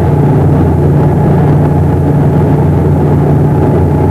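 Boat engine running steadily and loudly, a constant low drone with no change in pitch.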